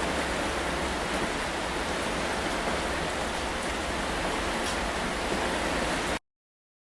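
Steady rain falling, an even hiss with a few faint drop ticks, that cuts off abruptly into silence near the end.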